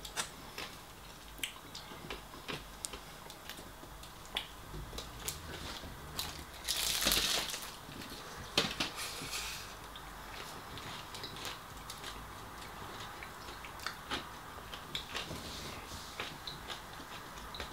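Close-up eating sounds: a man biting into and chewing fried food, with many small wet mouth clicks and smacks. A louder crunching bite comes about seven seconds in.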